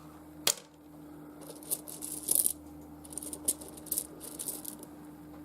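Small pieces of rough seam opal clicking and rattling against one another as they are handled: one sharp click about half a second in, then a run of light clicks and rattles.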